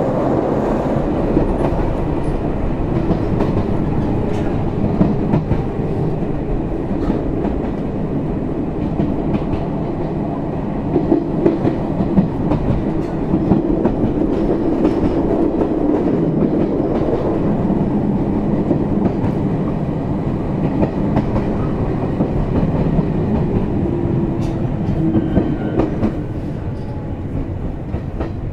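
Interior running sound of an Izuhakone Railway 7000 series electric train (set 7301) under way: a steady rumble of wheels on rail with rail-joint clickety-clack, easing slightly near the end.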